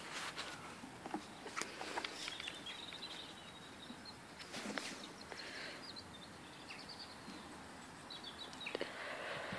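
Quiet outdoor field ambience with small birds chirping now and then and a scattering of sharp knocks and scuffles.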